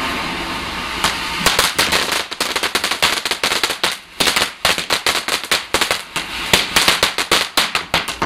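Garden firework going off: a steady hiss, then from about a second in a rapid string of sharp crackling pops, several a second, stopping near the end.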